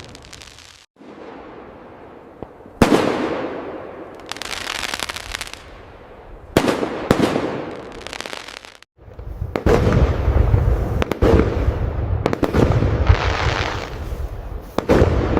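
Aerial fireworks bursting: single sharp bangs, each with a trailing crackle and echo. About two-thirds of the way in they build to a rapid volley of booms with deep rumble.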